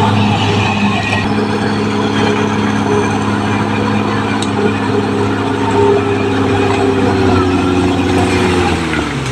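Caterpillar D6R XL bulldozer's diesel engine running steadily, its pitch falling near the end.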